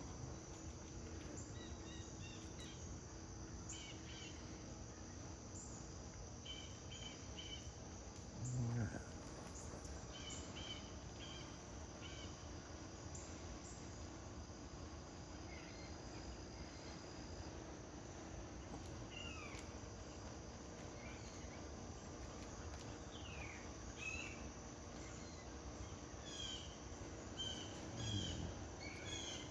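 Faint outdoor backyard ambience: scattered short bird chirps and a few quick falling calls over a steady insect drone, with a brief low thump about eight seconds in.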